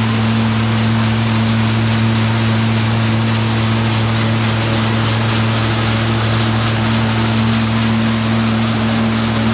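Hazelnut thresher (patoz) running steadily as hazelnuts pass through it to be husked: a constant machine hum with a steady hiss above it.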